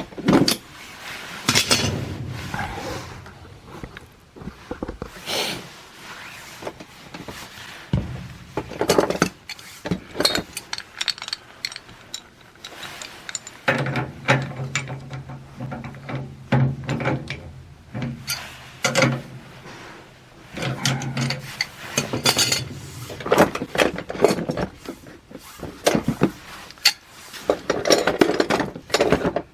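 Hands-on work with tools and fittings: irregular clanks, knocks, scraping and ratchet-like clicking, with a steady low hum for several seconds in the middle.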